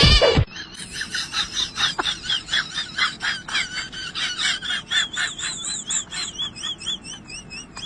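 A bird singing: a long run of quick, high chirps, joined in the second half by repeated wavering whistled notes.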